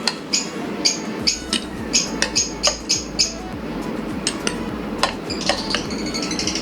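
Light, sharp clinks of a spoon against small dishes as soft food is portioned out. They come in a quick irregular run of about a dozen in the first half, then a few scattered ones.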